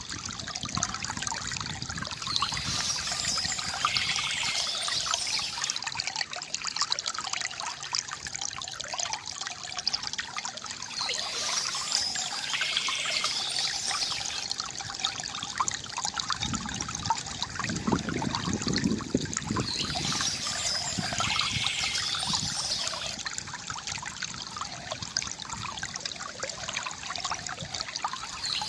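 Water from a bamboo fountain trickling and gurgling steadily, with a deeper gurgle swelling for a few seconds past the middle. Birds chirp in bursts that come back about every nine seconds.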